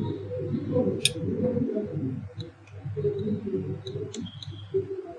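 Low cooing of birds, with one sharp click about a second in and a few faint ticks after it.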